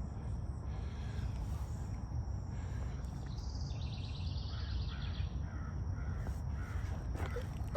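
A bird calling repeatedly in short calls about every half second, with a quick high trill from another bird a little past three seconds in, over a steady low outdoor rumble.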